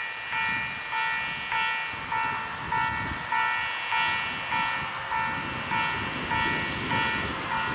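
Railway level-crossing warning bell ringing in a steady rhythm, about one and a half to two strikes a second, with a train rumbling underneath.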